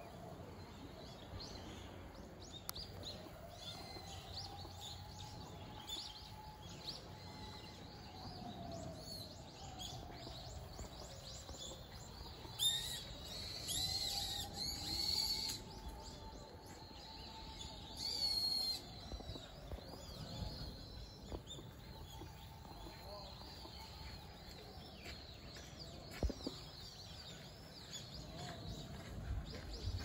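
Outdoor ambience with small birds chirping now and then, high-pitched; a louder run of chirps comes about halfway through and a shorter one a few seconds later.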